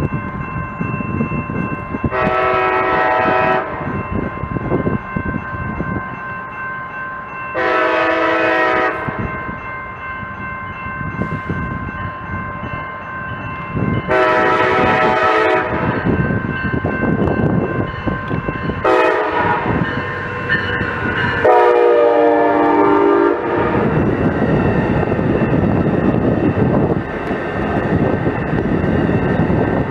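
Train locomotive air horn sounding five blasts of about one and a half to two seconds each, over the continuous rumble of the moving train.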